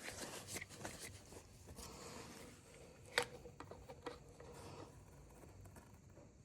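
Faint clicks, taps and scrapes of small chainsaw parts and tools being handled during repair work, with one sharper click about three seconds in.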